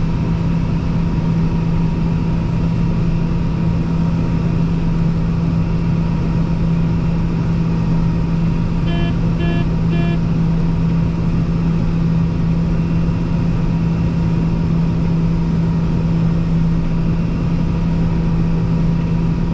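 John Deere 9650 combine heard from inside its cab, running with a steady low drone while harvesting soybeans. About halfway through, three short beeps sound, the cab's signal that the unloading auger is running.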